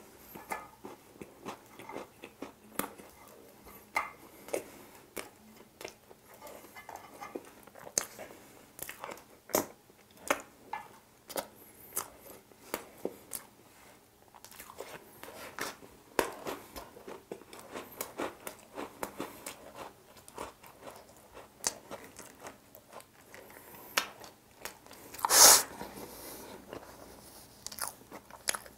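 Close-miked mouth sounds of someone eating Oreo icebox cake from a spoon: wet chewing and smacking with soft crunches and small clicks. One brief, much louder noise about three seconds before the end.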